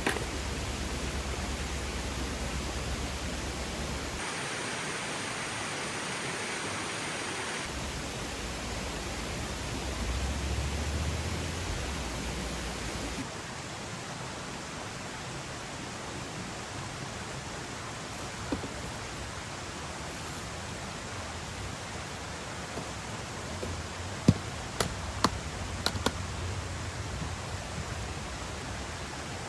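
Steady rushing of flowing stream water, its tone shifting abruptly a few times, with a handful of sharp clicks a little before the end.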